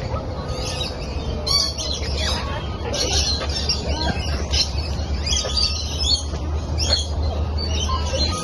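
Many birds in an aviary squawking and chirping at once, short harsh calls overlapping without a break, over a steady low hum.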